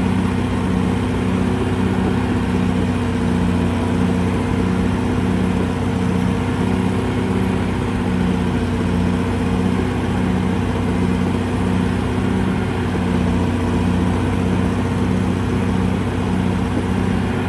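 CAT D6R XL bulldozer's diesel engine running steadily, with a regular pulsing beat about twice a second.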